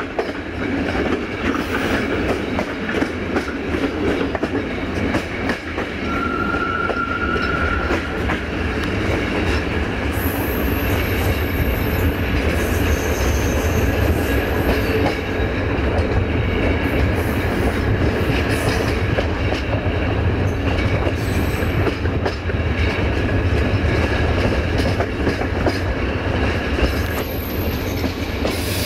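Passenger train running on the rails, heard aboard a coach: a steady rumble of wheels on track with ticks from rail joints. A brief thin wheel squeal sounds a few seconds in, and fainter high squeals come near the middle and near the end.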